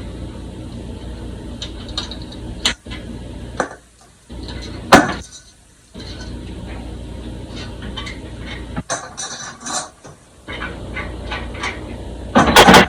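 Metal tools and sheet metal clinking, knocking and scraping during hand fabrication work, with a sharp clank about five seconds in and a louder clatter near the end, over a steady low hum.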